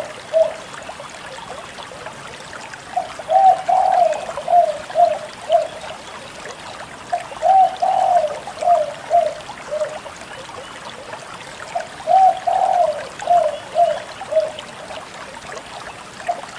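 Spotted dove (tekukur) cooing: three full phrases about four and a half seconds apart, each a longer low coo followed by three or four shorter ones, over a steady background noise.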